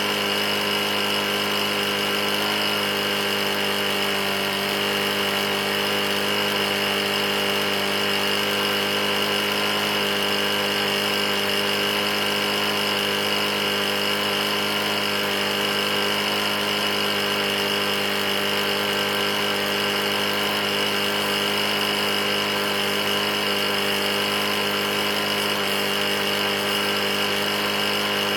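Briggs & Stratton E450 single-cylinder mower engine running steadily at constant speed. The engine has a bad knock, which the owner puts down to having run nearly out of oil.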